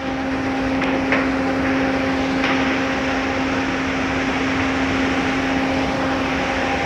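Automatic car wash machinery working over the car, heard from inside the cabin: a steady rush of noise with a constant motor hum underneath.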